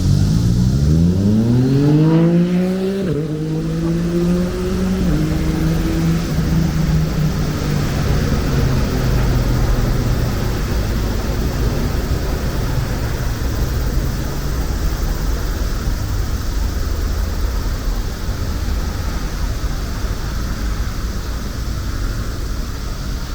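A motor vehicle accelerating: its engine rises steadily in pitch and drops at gear changes about three and five seconds in. After that comes a steady road traffic rumble.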